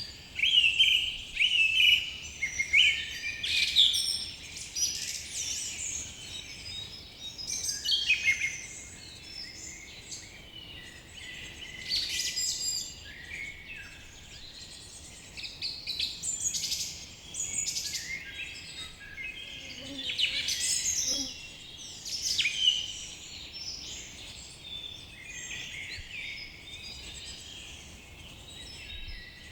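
A chorus of songbirds chirping and trilling, many high calls overlapping, with louder bursts now and then.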